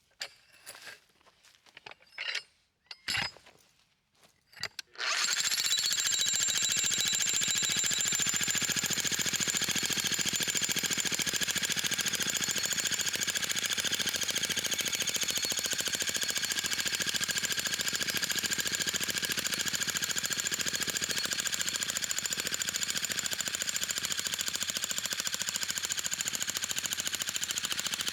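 A few scattered knocks, then about five seconds in a jackhammer fitted with a homemade axe-head bit starts and hammers steadily without a break.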